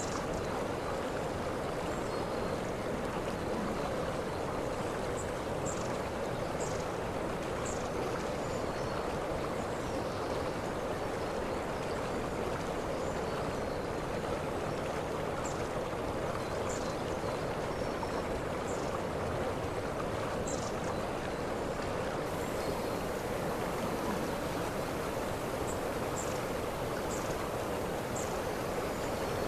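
Waterfall: water rushing steadily. Short high-pitched sounds come through it now and then.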